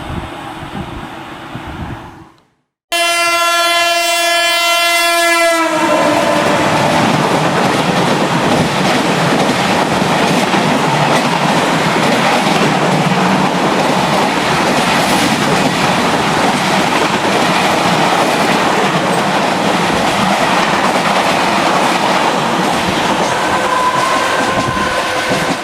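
An express train's locomotive horn sounds one long blast about three seconds in, its pitch sagging slightly as it ends. The train then rushes through with loud, steady wheel and coach noise and clickety-clack for about twenty seconds. A fainter horn tone comes in near the end, and before the blast the tail of an earlier train's running noise fades and cuts off.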